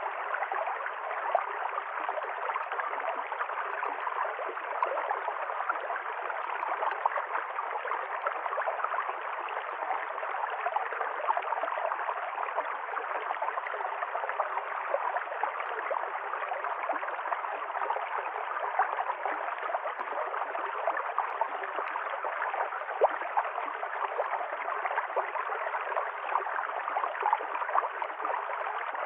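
River stream flowing: a steady, even rush of running water with no pauses.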